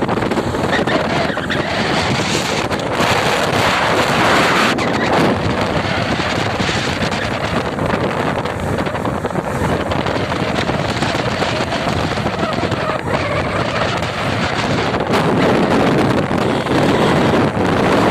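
Wind rushing over the microphone of a motorcycle moving at speed on a highway, a loud steady rush that rises and falls a little, with the vehicle's running noise mixed in.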